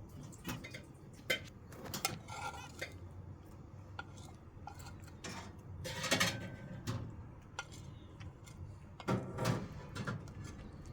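Scattered light clinks and knocks of a food dish as kittens are fed, with louder clattering about six seconds and again about nine seconds in.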